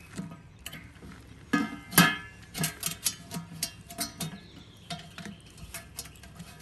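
Metal clanking: a run of sharp knocks with brief ringing, loudest about two seconds in, thinning out toward the end, as metal cookware and tools are handled at the fire.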